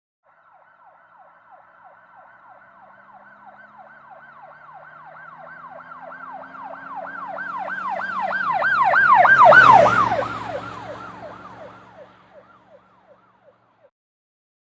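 Emergency vehicle siren with a fast up-and-down wail, about three sweeps a second, passing by. It grows steadily louder as it approaches, is loudest about two-thirds of the way in, drops slightly in pitch as it goes past, and fades away, with the vehicle's engine heard beneath it.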